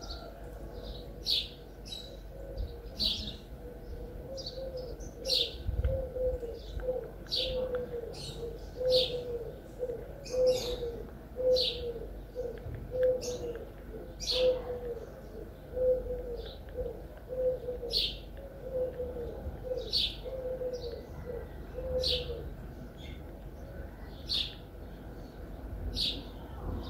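Birds chirping: short high chirps every second or so, with a lower note repeated a little faster than once a second that stops a few seconds before the end.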